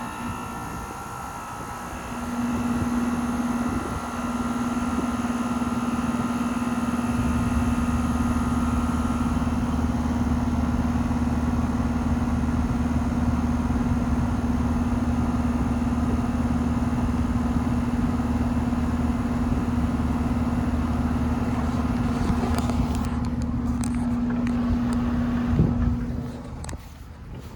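Outdoor unit of a Carrier central air conditioner starting up: a steady compressor hum sets in about two seconds in, and a low fan rumble joins a few seconds later. The sound drops away sharply near the end.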